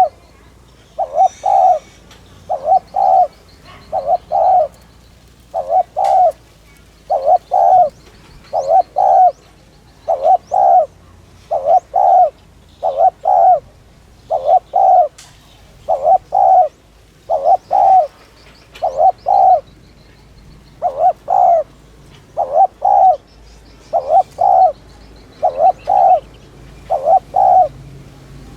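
Spotted dove cooing over and over, each phrase a quick pair of coos, repeated about every second and a half. This is the urgent, driving 'thúc' cooing kept for luring and rousing other doves.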